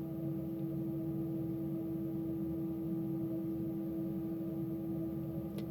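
A moving train heard from inside: a steady, unchanging tone over a low rolling rumble, with one sharp click near the end.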